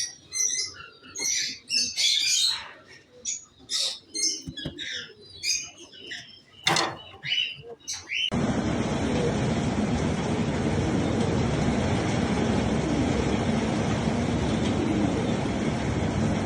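Birds chirping, with many short high calls overlapping, for about the first eight seconds. Then the sound switches abruptly to a steady loud rushing noise.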